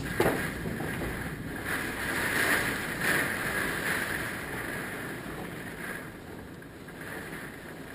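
Hurricane-force wind gusting, with the wind buffeting the microphone. It builds to its strongest gusts two to three seconds in, then eases off toward the end.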